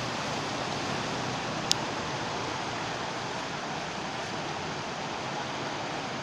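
Steady rush of rainwater, an even hiss with no let-up. A single sharp click sounds a little under two seconds in.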